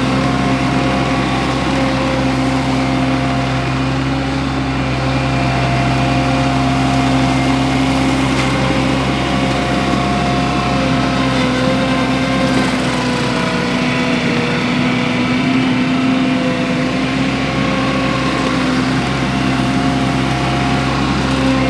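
Wacker Neuson SM120 mini skid steer's engine running steadily, its pitch wavering slightly, with the Baumalight mulcher attachment on it.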